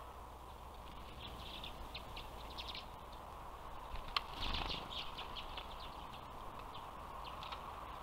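Small birds chirping, many short high calls scattered throughout, over a steady background hiss. A sharp click about four seconds in, followed by a brief low thump.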